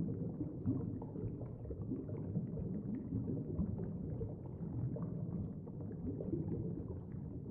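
Steady, muffled low rumble with a water-like texture, a background ambience with no clear events.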